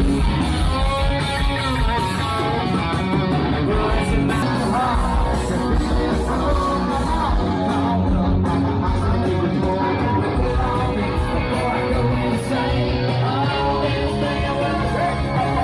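Loud live rock music: a band with electric guitar and a steady beat, with a singing voice.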